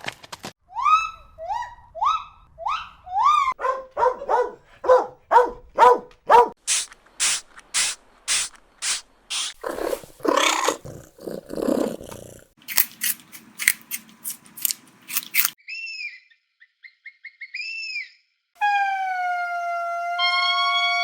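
A series of different animal calls played one after another: about five rising yelps, then rapid repeated calls, a run of sharp noisy pulses, short chirps, and near the end one long steady call.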